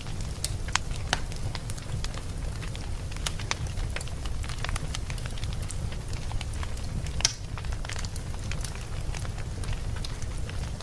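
Wood fire burning in a fireplace: a steady low rumble of flames with frequent sharp crackles and pops, one louder pop a little past seven seconds in.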